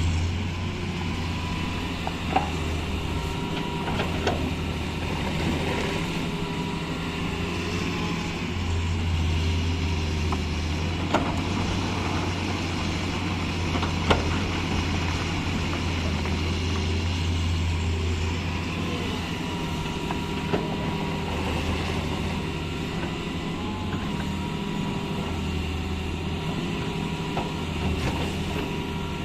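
Heavy diesel engine running steadily at a low, even drone, with a few short sharp knocks now and then.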